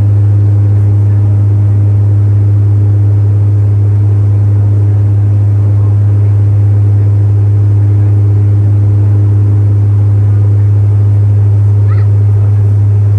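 Bombardier Q400 turboprop heard from inside the cabin: a loud, steady drone of its six-bladed propellers and engines, with a deep hum that holds one pitch and fainter tones above it.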